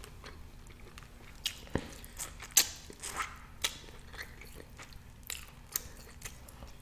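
A person chewing food close to the microphone, with irregular short clicks and smacks of the mouth.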